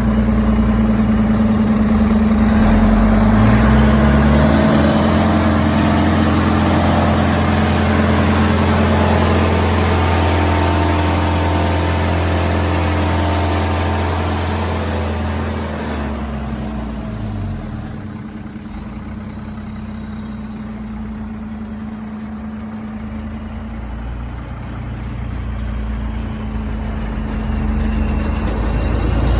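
Leaf vacuum truck's engine running, revved up about three seconds in and held at high speed for around twelve seconds, then dropping back to idle about sixteen seconds in.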